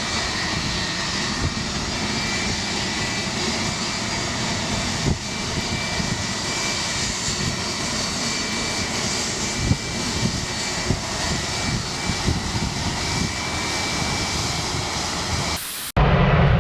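Jet airliner engines running with a steady whine and faint high tones, heard through gusty wind buffeting the microphone. The sound cuts off abruptly just before the end.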